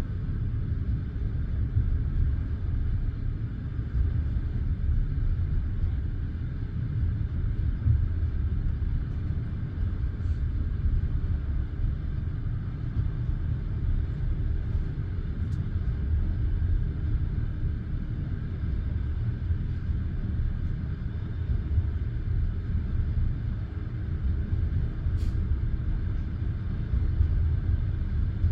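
Passenger train running along the line, heard from inside the carriage: a steady low rumble of the wheels on the track, with a few faint ticks.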